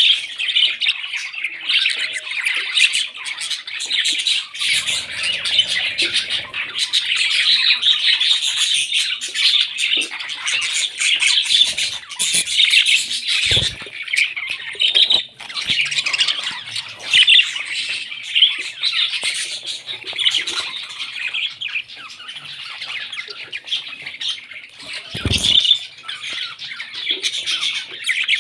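Pet parrots chattering and squawking without a break, a dense stream of quick high calls. Two short dull thumps stand out, one about halfway through and one near the end.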